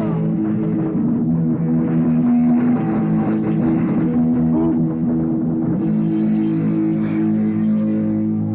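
Live rock band playing an instrumental stretch of a song: sustained, steady guitar chords over drums.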